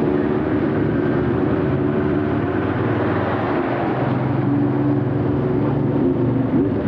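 A vehicle engine running steadily, a continuous droning hum with a slight shift in pitch about halfway through.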